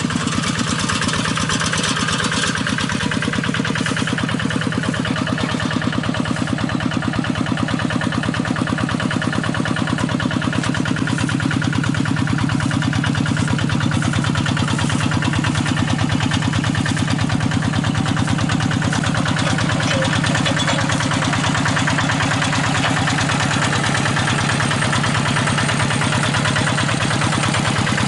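Single-cylinder diesel engine of a paddy-field hand tractor, started by hand crank, running steadily at idle with an even pulsing chug.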